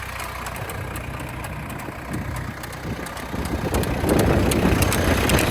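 New Holland T2320 compact tractor's diesel engine idling with the cab air conditioning switched on, its AC compressor clicking on and off instead of staying engaged. The noise steps up louder about four seconds in. Cycling like this is usually a sign the system needs refrigerant, though a faulty compressor clutch could also be the cause.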